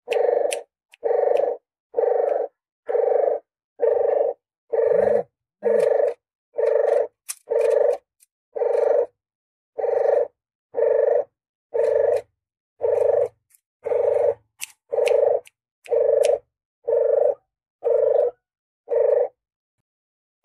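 Lure-call recording of a puter geni dove: short, low coos repeated about once a second in an even, unbroken series.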